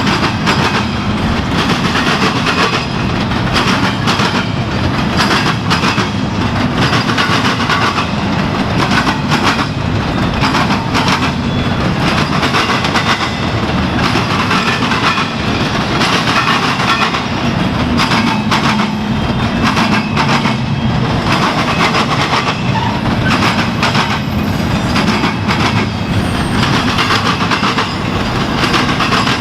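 Intermodal freight cars rolling past at speed, steel wheels clicking and clattering over rail joints under a steady rumble.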